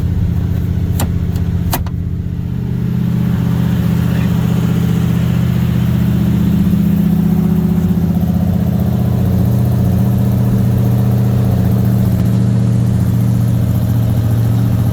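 Oldsmobile 455 Rocket V8 idling steadily on its dual exhaust while warming up after a cold start. Two sharp clicks come about a second in, from the power trunk lid release latching open.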